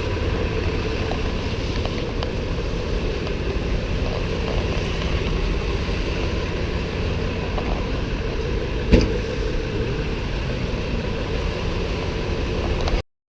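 Steady rumble of a car running, with one sharp knock about nine seconds in; the sound cuts off abruptly near the end.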